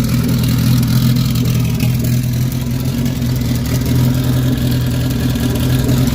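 Car engine running steadily at a constant pitch, a loud, even engine hum with no revving.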